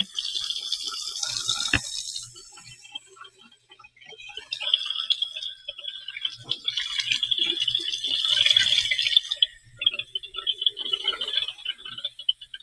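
Running water splashing, with irregular rattling and clicks.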